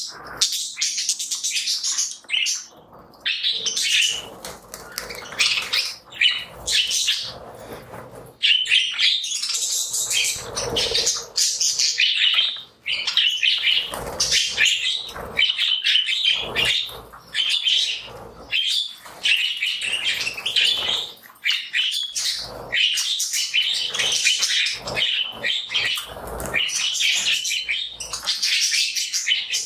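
A flock of budgies chattering and chirping continuously, many birds calling at once, with some wing flapping and rustling.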